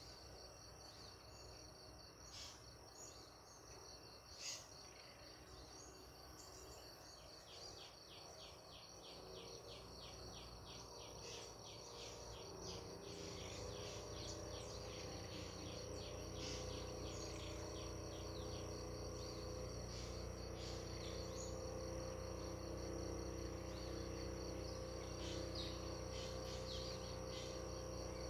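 Crickets trilling steadily at a high pitch, with a quick run of bird chirps in the first half. A low, steady hum made of several tones grows in from about halfway and becomes the loudest part.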